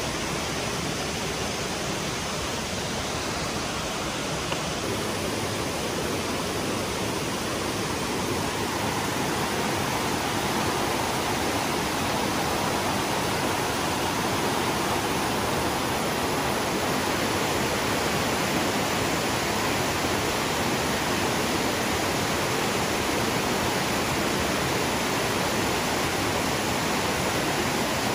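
Steady rushing of flowing water, a river or waterfall stream, an even hiss with no breaks, growing slightly louder about ten seconds in.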